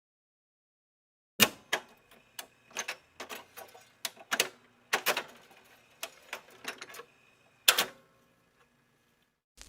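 A series of irregular sharp clicks and knocks, about a dozen over six seconds, the loudest at the start and near the end.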